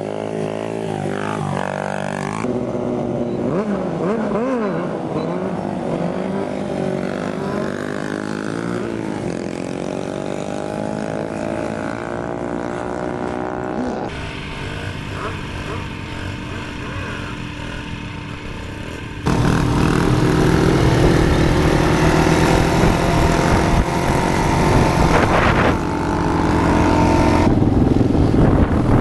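Small pit bike engines revving, their pitch rising and falling repeatedly across several cut-together clips. The engine sound becomes louder about two-thirds of the way through.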